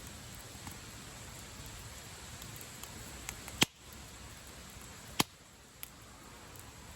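Wood campfire burning with a steady hiss and scattered crackles, with two sharp loud pops about three and a half and five seconds in.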